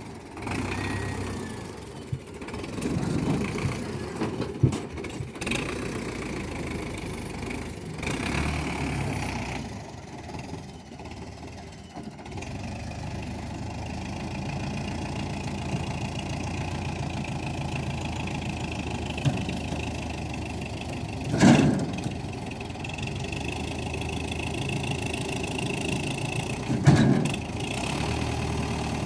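Tractor engine running steadily, with two short louder bursts, one about two-thirds of the way through and one near the end.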